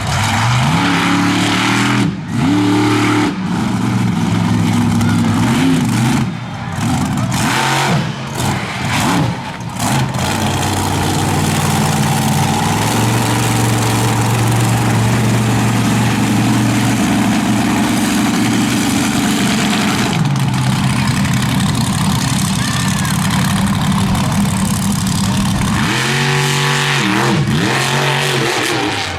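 Monster truck's big-block V8 engine revving hard through a timed run. The throttle drops off and picks up again several times in the first ten seconds, then holds at high revs for about ten seconds, with a few quick blips of the throttle near the end.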